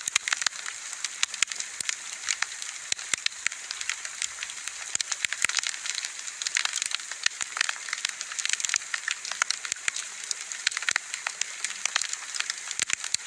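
Wood bonfire burning: a steady hiss with many sharp, irregular crackles and pops from the burning wood.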